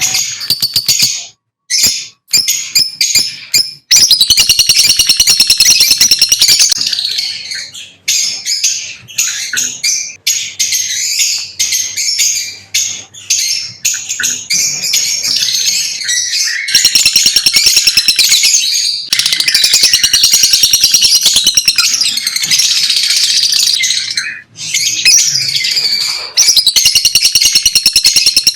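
Lovebirds, small parrots, chirping and chattering in rapid, high-pitched calls, with a few short pauses in the first few seconds, then long stretches of dense, almost unbroken chatter.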